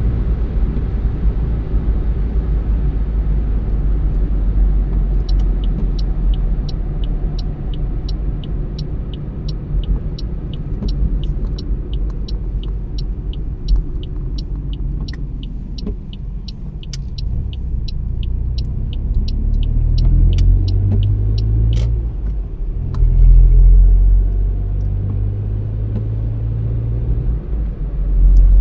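Car cabin: steady road and engine rumble, with the turn-signal indicator ticking about twice a second from a few seconds in until about three-quarters through. Near the end the engine note firms up and swells as the car pulls away.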